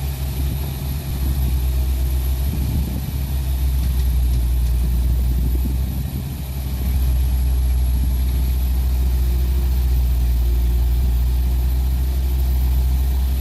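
Heavy truck's diesel engine running as the truck works through deep mud, a steady low drone that dips briefly about six seconds in before picking up again.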